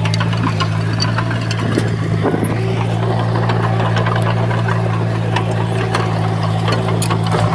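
Diesel engine of heavy earthmoving equipment running steadily, with scattered light clanks and clicks over it.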